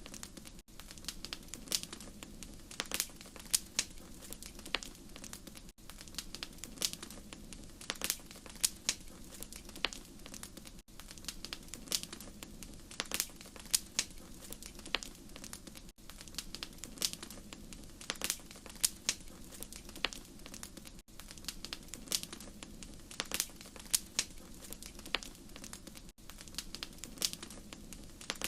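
Wood fire crackling in a fireplace: irregular sharp pops and snaps over a steady low rumble of burning, with a brief dropout about every five seconds.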